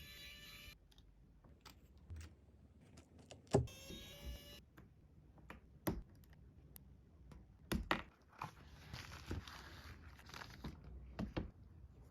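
Scattered light clicks and taps of small repair tools and phone parts being handled during an iPhone screen replacement, with a short stretch of steady tones about four seconds in.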